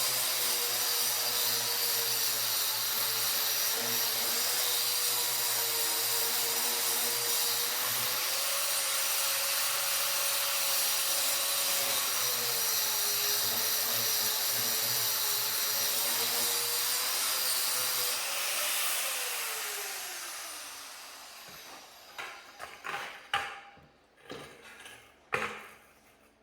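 A power tool running steadily under load, its pitch wavering slightly, then switched off and spinning down with a falling whine, followed by a few scattered knocks and clicks.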